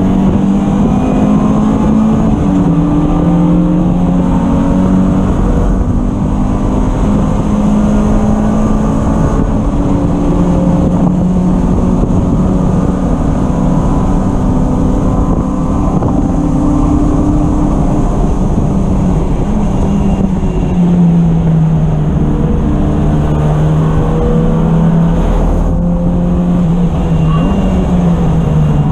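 Race car engine running hard on track, heard loudly as from on board. The pitch climbs and drops in steps through gear changes, with a falling stretch about twenty seconds in as it slows, then builds again.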